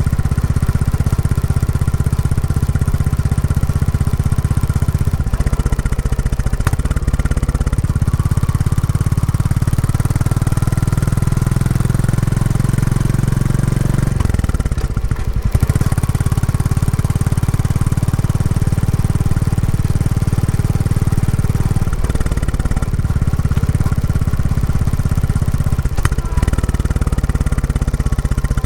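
Royal Enfield Classic 350's single-cylinder engine running through its stock exhaust while the motorcycle is ridden on a running-in ride. The engine note shifts several times and drops briefly about halfway through before picking up again.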